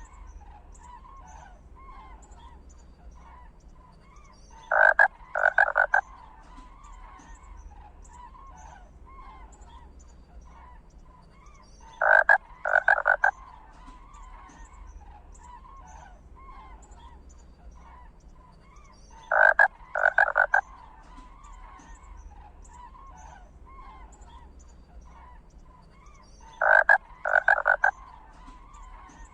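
A loud, croaking double call, two short notes less than a second apart, repeats at very regular intervals about every seven seconds, four times in all. Under it runs a faint, continuous chorus of small chirping calls.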